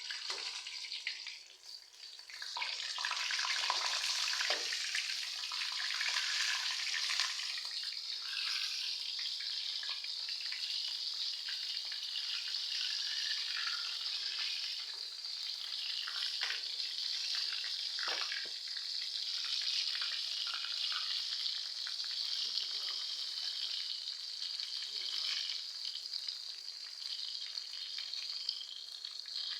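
Battered ote-ote vegetable fritters and stuffed tofu deep-frying in hot oil, a steady sizzle that swells up about two seconds in. A few light clicks of a utensil come through now and then.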